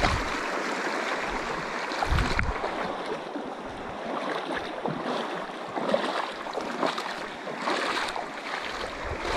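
River water running over rocks, a steady rushing noise, with a low bump about two seconds in.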